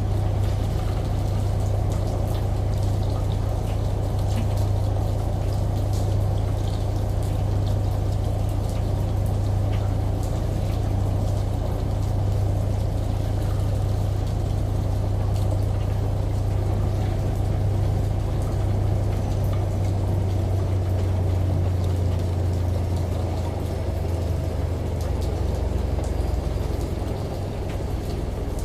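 Washing machine running with a steady low hum, layered with the even hiss of running water and rain, with scattered drop ticks. The lowest hum wavers in the last several seconds.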